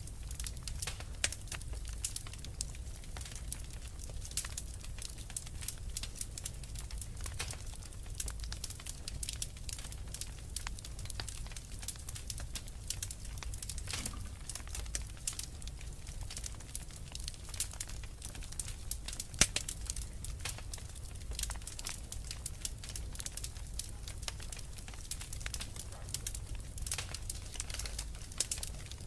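Wood fire crackling, with irregular sharp pops over a low steady rumble; one louder pop about two thirds of the way through.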